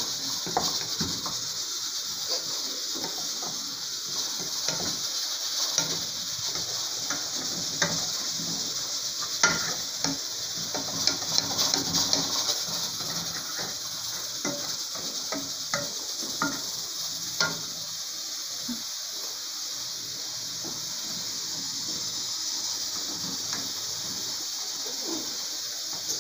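Onion, peas and seasoning sizzling in an aluminium pan while a wooden spoon stirs, scraping and knocking against the pan now and then. The knocks stop about two-thirds of the way through and the steady sizzle carries on.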